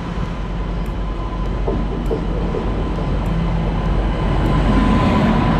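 Passenger train drawing into the platform behind an electric locomotive, a steady rumble that grows louder as the locomotive passes close by about four seconds in.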